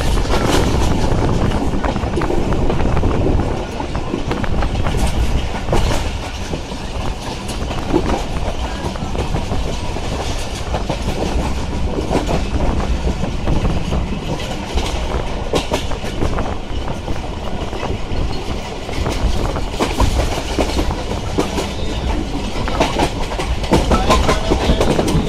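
A Pakistan Railways passenger train running along the line, heard from an open carriage window: a steady rumble and rushing noise, with the wheels knocking over rail joints again and again.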